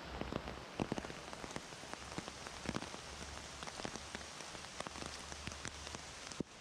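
Heavy rain falling steadily through rainforest foliage, with large drops landing close by as sharp, irregular pats.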